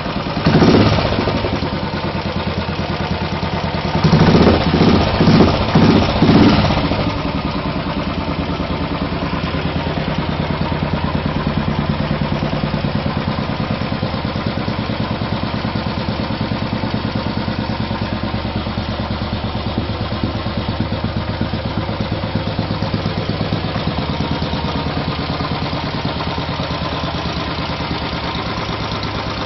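Royal Enfield 500 single-cylinder engine through an MG-Race aftermarket exhaust, running after a cold start. There is a short throttle blip about a second in and a quick run of four or five blips between four and six seconds in, then it settles into a steady idle.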